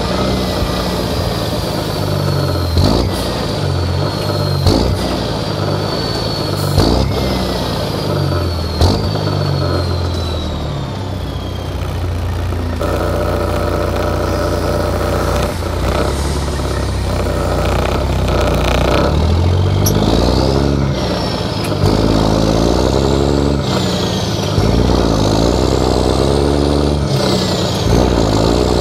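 Straight-piped 11.1 L Series 60 Detroit diesel in a loaded truck. Its note falls slowly over the first dozen seconds, with sharp knocks about every two seconds. In the last part the revs climb and drop again and again as it goes through gear changes.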